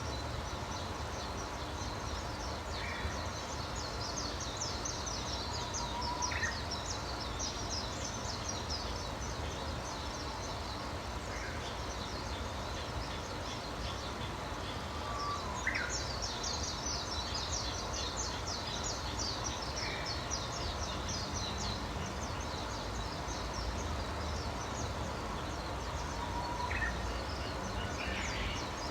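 Wild songbirds chirping and singing: a busy high-pitched chatter that thins out midway and picks up again about halfway through, with a short clear call note every few seconds. A steady low rumble runs underneath.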